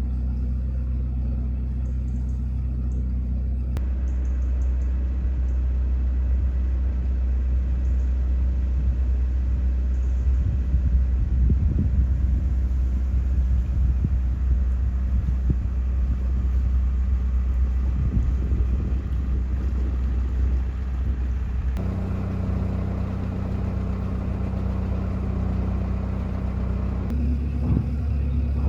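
Narrowboat diesel engine running steadily while cruising, a constant low rumble. Its note changes abruptly a few times.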